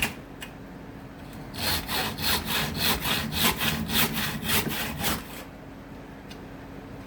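Acacia wood being hand-sawn in quick back-and-forth strokes, about two and a half a second. The sawing stops about five seconds in.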